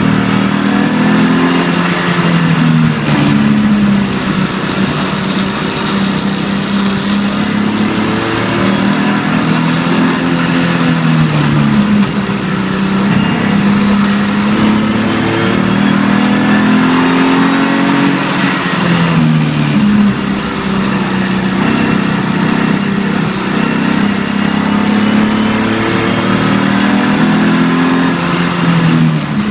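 BMW E46 325ti Compact's 2.5-litre straight-six heard from inside the cabin under way, its revs climbing and then dropping several times through gear changes.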